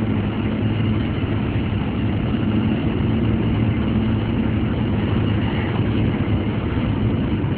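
A car running steadily on the road, heard from inside the cabin: a steady low engine hum under even road and tyre noise.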